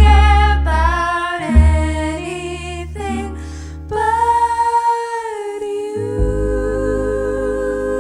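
Female voices singing a 90s pop medley over a backing track with a deep bass line: a few short phrases, then a long note held with vibrato from about four seconds in.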